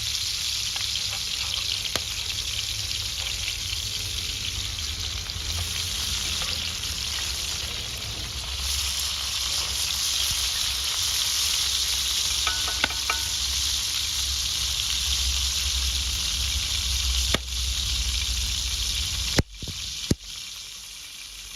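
Steady sizzling hiss of fish cooking over a wood fire, with a low rumble beneath and a few light clicks. The sound briefly cuts out twice near the end.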